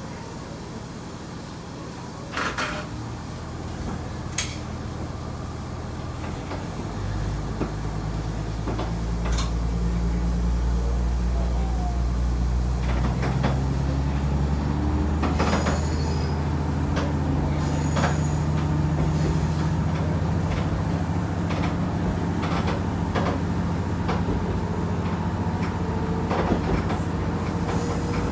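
Diesel railcar (KiHa 110 series) engine pulling the train up to speed: the engine note grows louder and steps up in pitch from about seven seconds in, with the clack of wheels over rail joints joining in as it gathers speed.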